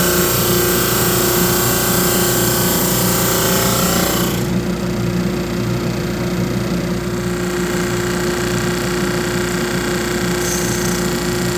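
A woodworking power tool's motor running steadily with a constant hum; a loud hiss of the tool working the wood stops about four seconds in, and the motor keeps running.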